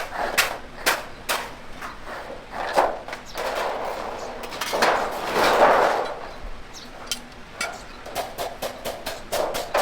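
Hammer striking sheet metal by hand: a few sharp blows about twice a second, a longer noisy stretch in the middle, then a run of quicker, lighter strikes near the end.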